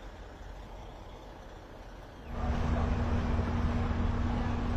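Motor vehicle running with a low rumble that suddenly gets much louder about two seconds in, joined by a steady hum.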